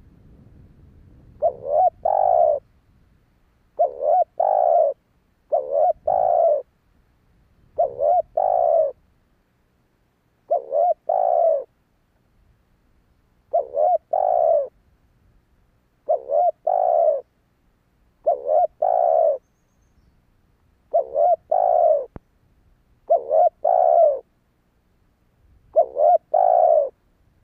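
Spotted dove cooing: a short phrase of a few low notes, repeated about every two seconds.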